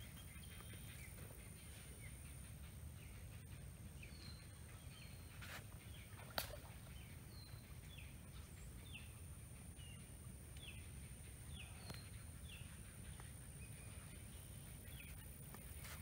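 Faint background birdsong: many short, sharp chirps repeating irregularly, over a steady high-pitched tone. There is a single sharp click about six seconds in.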